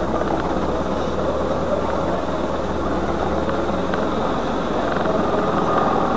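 Car engine and running noise heard from inside the cabin as the car creeps forward at low speed, a steady low hum that shifts about four and a half seconds in.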